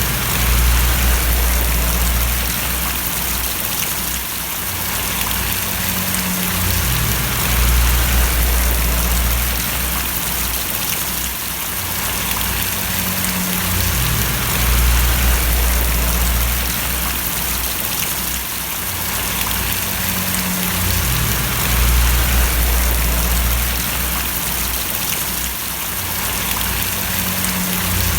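Heavy rain falling and splashing in a steady hiss, with a low rumble underneath that swells and fades about every seven seconds.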